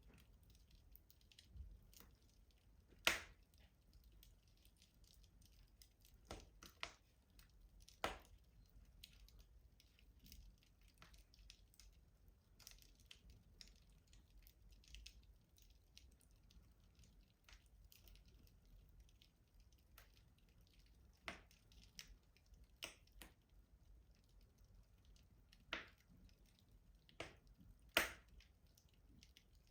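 Wood fire crackling in a traditional rustic stove: scattered sharp pops and snaps over a faint steady background, the loudest about three seconds in and again near the end.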